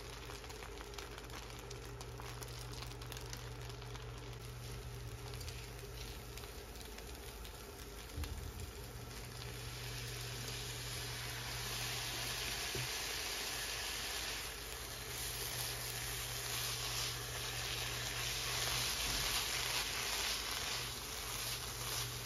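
Shredded chicken frying in a non-stick pan on an induction cooker, stirred with a silicone spatula. The sizzling grows louder from about ten seconds in, over a steady low hum.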